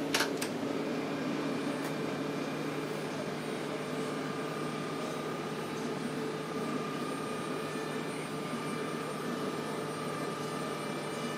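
ICE high-speed electric train running past across the tracks: a steady rumble and hum, with a higher whine joining about four seconds in. A couple of short clicks come right at the start.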